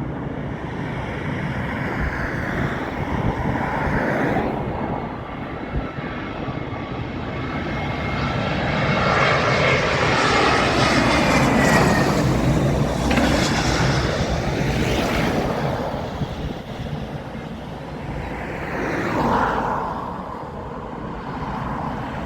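Jet airliner on landing approach passing low overhead. Its engine sound builds to a peak about halfway through, with a whine that falls in pitch as it goes by, then fades.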